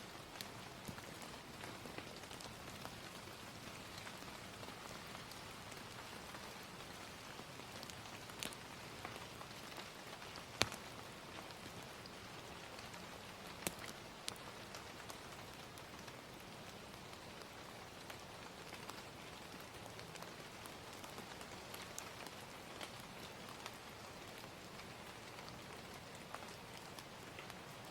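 Gentle rain ambience mixed with a crackling fire: a steady rain hiss with scattered sharp pops and crackles, the loudest about ten and a half seconds in.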